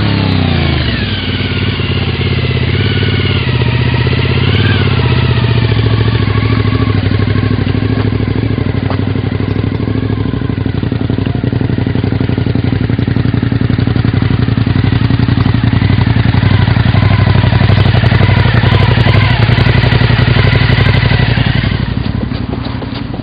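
Suzuki SV1000's V-twin engine pulling away through the gears, its pitch climbing and dropping at each shift over the first few seconds. It then runs at a steady speed and eases off near the end.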